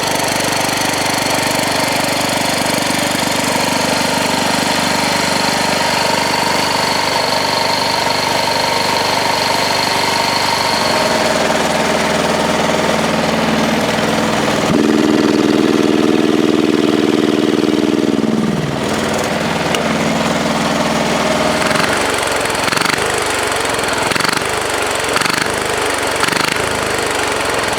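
Small pull-start diesel engine of a 1967 Wheel Horse 1067 garden tractor running just after a freezing cold start, still cold and warming up. About halfway a louder, higher tone comes in for a few seconds, then falls away.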